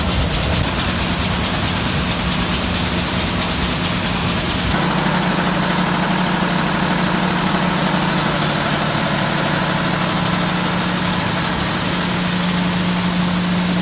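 Gravity separator for seed wheat running: a loud, steady machine noise with a constant hum and the hiss of the fan blowing air up under the deck. About five seconds in, the low rumble drops away, leaving the hum and the hiss.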